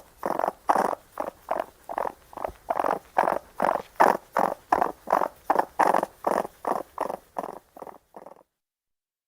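Raccoon chittering: a fast, even run of short calls, about three a second, that fades and stops near the end.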